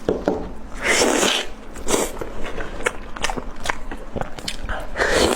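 Close-miked eating: chewing with many small wet mouth clicks, and three short breathy bursts, about one and two seconds in and near the end.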